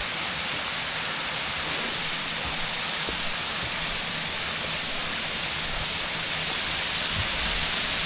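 Waterfall pouring with a steady rush of falling water.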